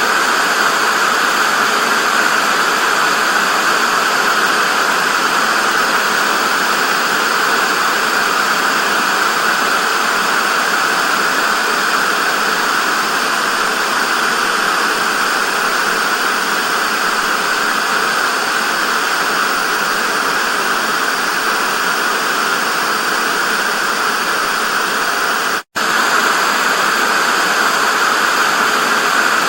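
Television static: a loud, steady hiss, fullest in the middle of the range, that cuts out for an instant near the end and resumes unchanged.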